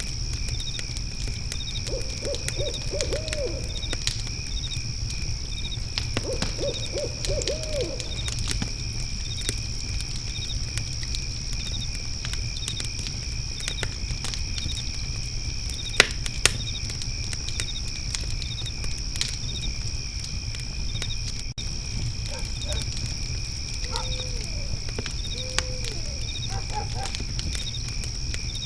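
Crickets chirping steadily with a wood fire pit crackling and popping under a low rumble, one sharp pop about halfway through. A low call in quick runs of notes comes twice early on and briefly a few more times near the end.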